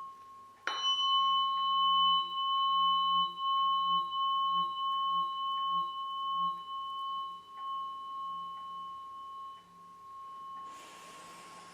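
A tuning fork struck about a second in, then ringing a steady high tone with a slow pulsing wobble as it gradually fades. A soft rushing noise comes in near the end.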